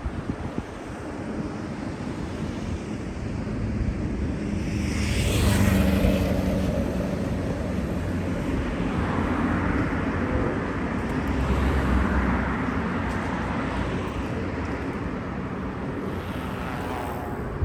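Outdoor walking ambience: wind rumbling on the microphone with traffic noise, and a vehicle going by, swelling and fading about five to six seconds in.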